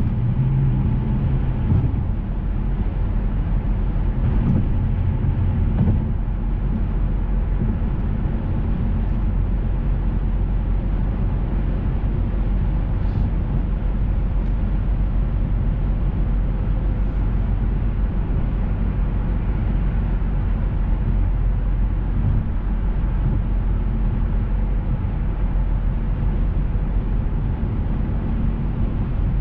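Cabin sound of a 2007 Mercedes-Benz S600 being driven: the twin-turbo V12 and road noise make a steady low drone. The engine tone is a little stronger for the first six seconds or so, then settles into an even cruise.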